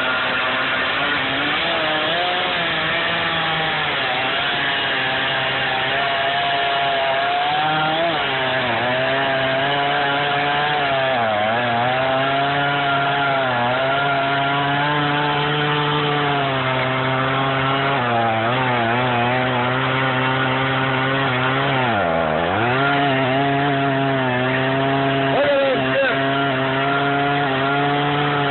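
Stihl MS 460 Magnum two-stroke chainsaw running at full throttle, its freshly sharpened chain cutting through a large dead oak log. The engine pitch holds steady, with a few brief dips as the saw loads in the cut, the deepest about three quarters of the way through.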